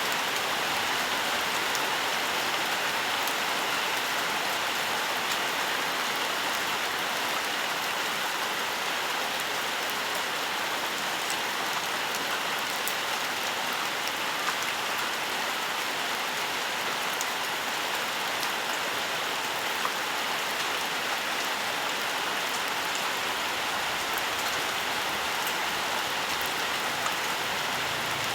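Steady rainfall in a forest, an even hiss of rain with many small drop ticks throughout.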